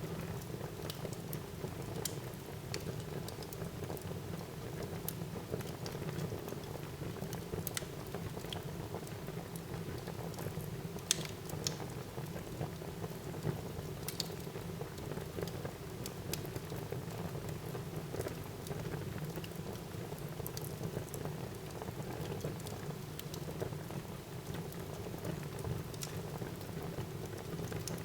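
Wood fire burning in a fireplace: a steady low rumble of flames with scattered sharp crackles and pops, one of them louder about eleven seconds in.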